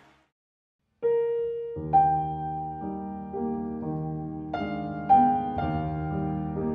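Background piano music begins about a second in, after a moment of silence: a slow melody of sustained single notes over low bass notes.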